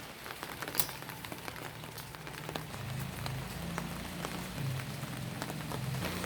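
Rain falling steadily on a surface, with many separate drops ticking sharply through the hiss.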